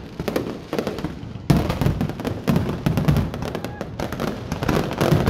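Aerial fireworks display: a dense run of bangs and crackles with low booms, easing briefly about a second in before a loud burst about a second and a half in.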